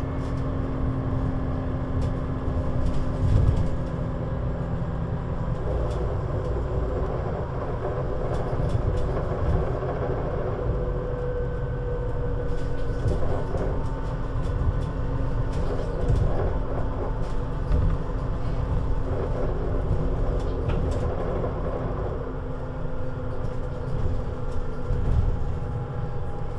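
Scania CN320UA 6x2/2 (Citywide LFA) three-axle city bus driving, a steady low engine and road rumble with faint engine tones that shift in pitch now and then.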